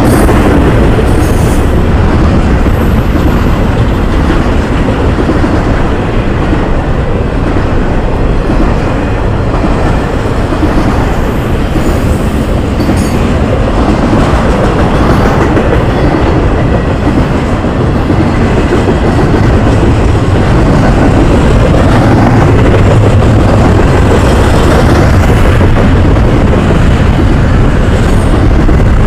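Intermodal freight train cars rolling past close by: trailer-carrying flatcars and double-stack container well cars. A loud, steady rumble of wheels on the rails.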